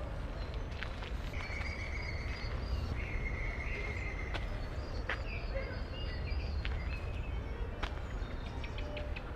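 Outdoor evening city-park ambience: a steady low rumble of distant city traffic, with birds calling in short held notes and chirps and a few sharp ticks scattered through.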